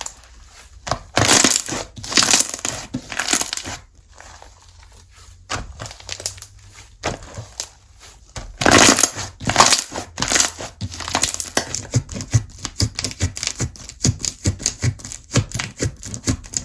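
Hands squishing and pressing slime, with a crinkly, crackling sound in a few longer strokes and a run of quick small pops and clicks in the last few seconds.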